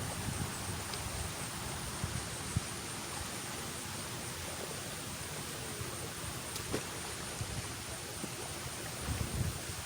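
Wind buffeting the microphone with low, uneven rumbles, over a steady high hiss and a few faint clicks.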